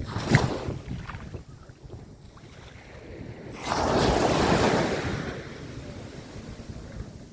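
Calm sea waves breaking and washing ashore, with one swelling wash about three and a half seconds in that lasts over a second and is the longest loud stretch. Wind rumbles on the microphone throughout, and a brief sharp knock sounds near the start.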